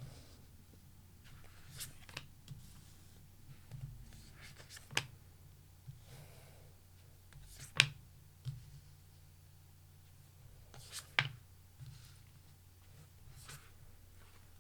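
Tarot cards being handled: scattered sharp clicks and taps, the loudest about five, eight and eleven seconds in, with soft rustling between them, over a steady low hum.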